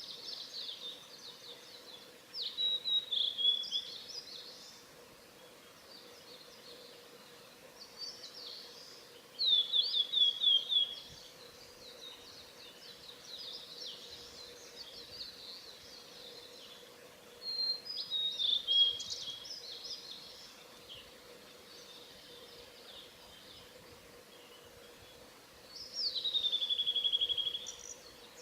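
Male Blue-and-white Flycatcher singing: four loud song phrases of rapid high whistles and trills, each a second or two long and several seconds apart. Softer warbling fills the gaps. The last phrase opens with a long downward-swooping whistle that runs into a quick trill.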